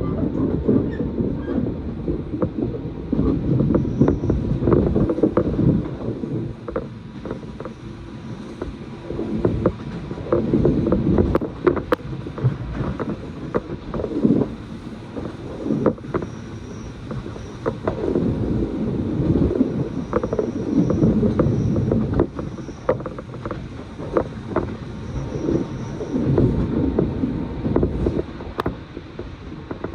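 Running noise heard inside the carriage of a moving electric train: a low rumble that swells and fades every second or two, with scattered sharp clicks from the wheels and track.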